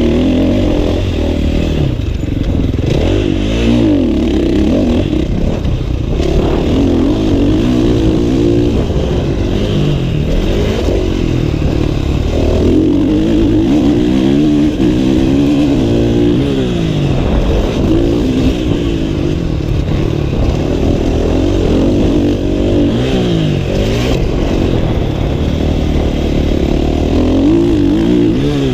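Motocross bike engine revving hard and easing off over and over, its pitch rising and falling again and again.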